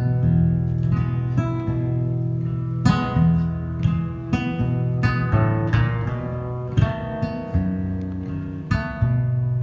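Acoustic guitar playing an instrumental break: plucked notes and strums over a sustained bass.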